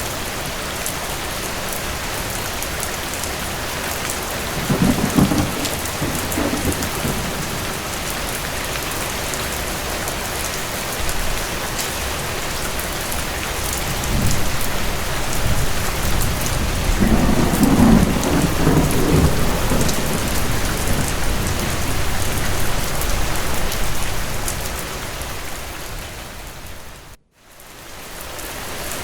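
Steady heavy rain with rolling thunder: a short rumble about five seconds in and a longer rolling rumble from about 14 to 20 seconds. The sound drops out sharply for a moment near the end.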